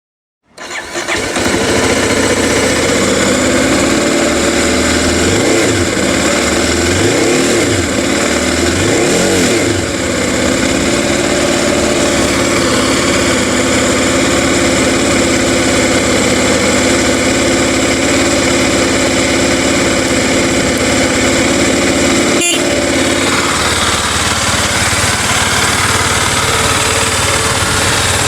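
An engine running steadily, its pitch rising and falling a few times between about 5 and 10 seconds in, with a sharp click a little past 22 seconds.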